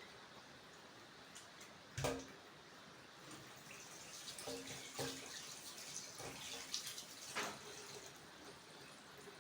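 Faint water running and splashing in a kitchen sink as beef is rinsed in a metal cooking pot, with a sharp knock about two seconds in and a few clinks of the pot while the water runs.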